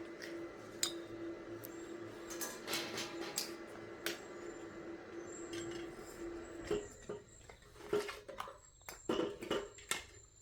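Metal clinking and clattering, a run of sharp knocks like metal parts and tools being handled, over a steady hum that stops about two-thirds of the way through; after that the clinks come sparser.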